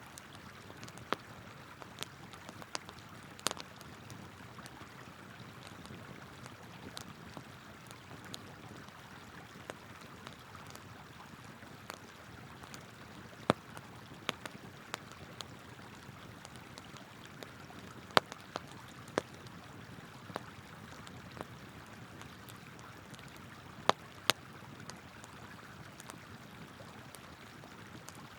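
Campfire wood crackling and popping in irregular sharp snaps, with a few louder pops, over the steady rush of a flowing river.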